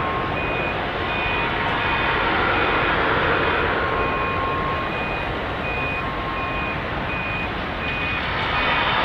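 Steady rushing noise of aircraft engines running, with a high electronic warning beep repeating in short pulses about twice a second through it.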